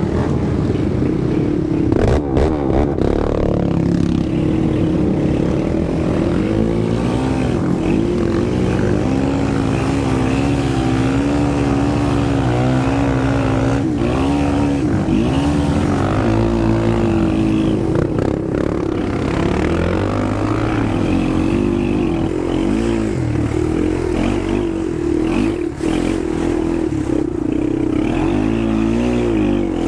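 Racing quad (ATV) engine running hard under load through mud, its pitch rising and falling continuously as the throttle opens and closes. A few sharp knocks come about two seconds in and again near the end.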